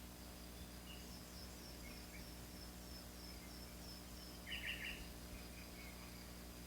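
Faint outdoor nature ambience: a few short bird chirps, the clearest about four and a half seconds in, over a steady high insect trill and a low hum.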